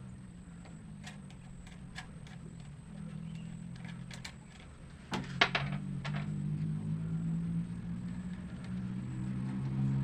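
A motor running steadily with a low hum, over scattered sharp clicks, and a short clatter of knocks about five seconds in.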